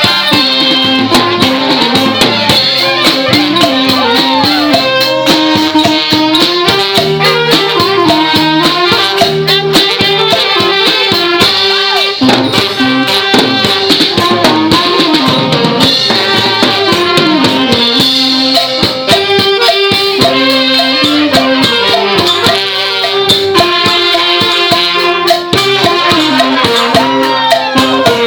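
Thai trae wong brass band playing a tune: a wind melody with bending, sliding notes over steady drums and rattling percussion.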